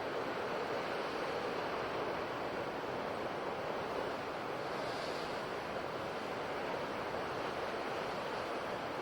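Ocean waves washing on the shore in a steady, continuous rush of surf.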